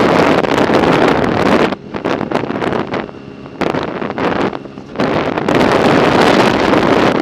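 Wind buffeting the microphone of a camera on a moving bicycle, easing off about two seconds in and picking up again about five seconds in.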